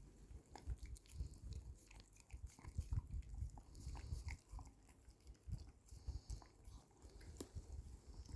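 A pet eating milk ice cream: irregular licking and chewing noises.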